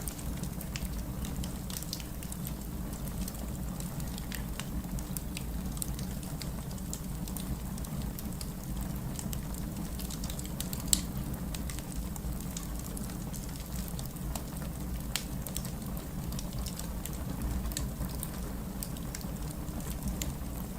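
Fireplace fire crackling, with scattered small snaps over a steady low rumble and one louder pop about eleven seconds in.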